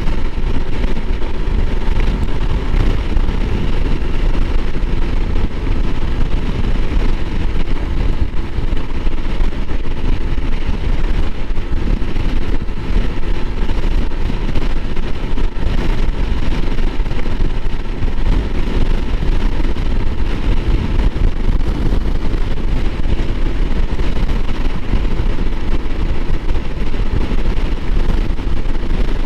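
Honda CRF300L Rally's single-cylinder engine running at a steady speed while ridden, mixed with heavy wind rush on the microphone.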